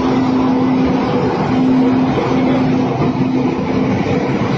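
Train running, a loud continuous rumble with a steady low tone that breaks off and resumes several times.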